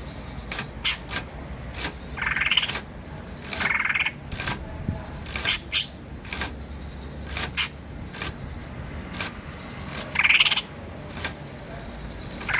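Green starling calling: a few rising calls about half a second long, in among many short, sharp, irregular clicks.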